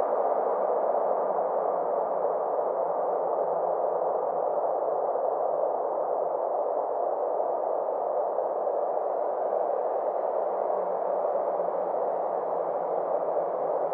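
Steady synthesized ambient space drone: a band of filtered noise centred in the midrange, with a faint low hum beneath it and a slow sweep in its upper edge that dips and rises again over several seconds.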